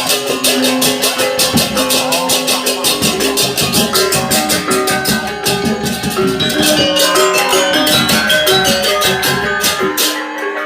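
Balinese gamelan playing: fast, evenly spaced crashing cymbal strokes over a melody of ringing bronze metallophones.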